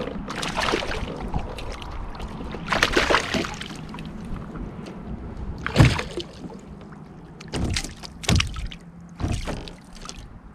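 Irregular knocks, clunks and rustling from handling a freshly caught fish and gear aboard a fishing kayak, with the loudest sharp knock about six seconds in.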